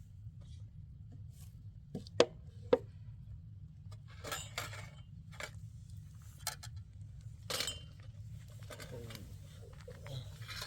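Two sharp clinks about half a second apart, then lighter, scattered clattering of kitchenware being handled, over a steady low hum.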